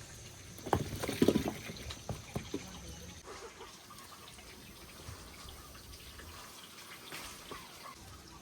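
Water trickling, with a short run of clattering knocks about a second in, like utensils or dishes being handled.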